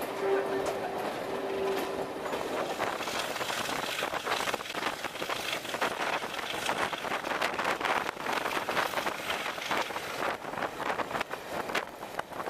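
Train running, heard from an open coach window: wheels clicking over the rail joints and wind rushing past, with a steady whine that fades out about two seconds in.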